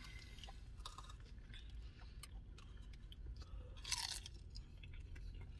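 A person chewing a bite of crispy queso birria taco close to the microphone, with wet crunching and small clicks of the mouth, and one louder crackle about four seconds in.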